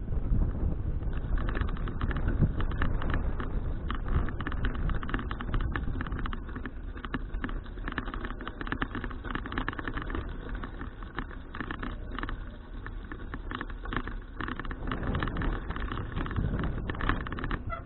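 Riding noise of a bicycle picked up by a bike-mounted action camera: a steady low rumble of wind and road on the microphone, with many irregular clicks and rattles from the bike from about a second in.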